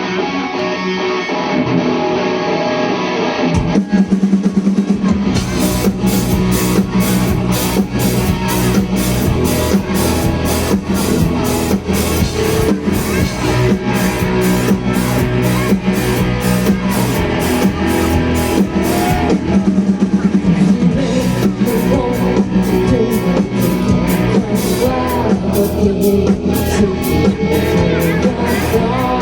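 A live rock band playing an instrumental passage on guitar, bass and drum kit. About three and a half seconds in, the full drum beat comes in with steady cymbal strokes.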